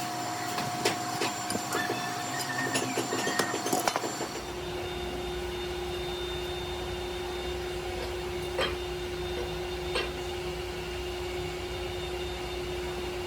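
Metalworking machinery running. For the first four seconds there is a steady whine with busy metallic clicking and clatter. It then switches abruptly to a different machine's lower steady whine over a low hum, with a couple of single clicks.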